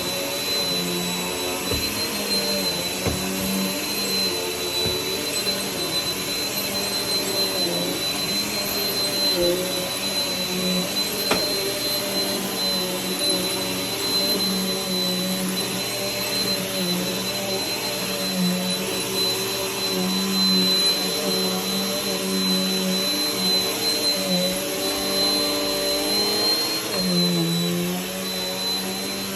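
Vacuum cleaner running continuously with a steady high whine. Its motor tone wavers and dips briefly a few times, most deeply near the end.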